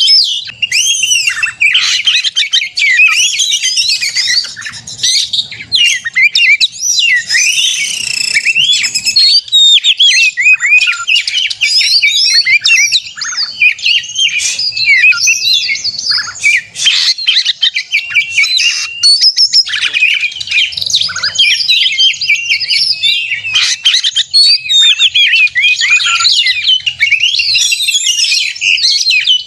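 Oriental magpie-robin singing a continuous, fast, varied stream of whistles, chirps and trills with no pauses. This is the energetic 'gacor' song that keepers play to their own magpie-robins as a lure to set them singing.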